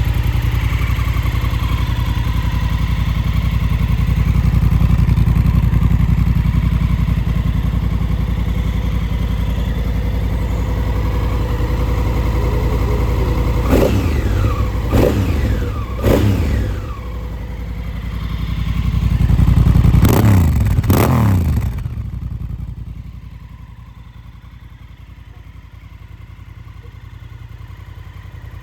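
Honda CRF1000 Africa Twin's parallel-twin engine, breathing through a full SC Project exhaust, idling. About halfway through it is blipped sharply three times in quick succession, and a few seconds later it is revved once more. After that it settles back and runs much quieter.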